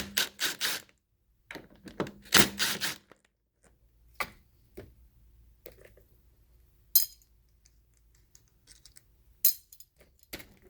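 Small metal carburetor parts and screws clinking and knocking on a workbench as the carburetor is taken apart: a quick run of knocks at the start and another around two seconds in, then a few single clicks.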